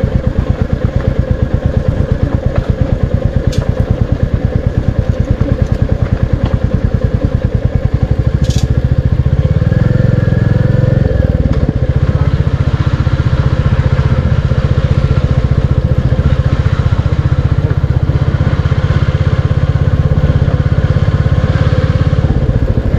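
Royal Enfield Classic 350's single-cylinder engine running under way, a steady fast beat of exhaust pulses. About ten seconds in it pulls harder and the low note grows louder.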